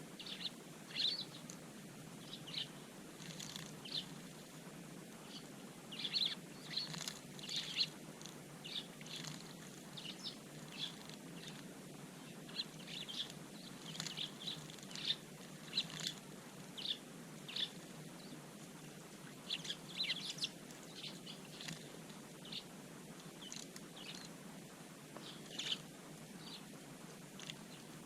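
Small garden birds calling: many short, high chirps come irregularly throughout, over a steady low background hum.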